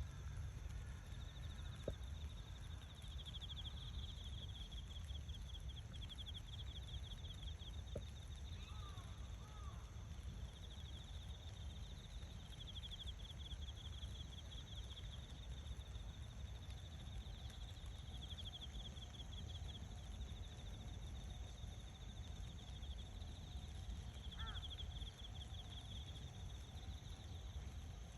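Insects trilling steadily in a high, pulsing chorus over a low outdoor rumble, with a few faint short chirps from birds in between.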